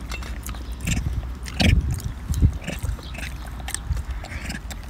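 Wet chewing and lip-smacking as a man and a young macaque eat soft durian flesh: irregular short clicks and smacks, with a couple of dull low thumps about two seconds in.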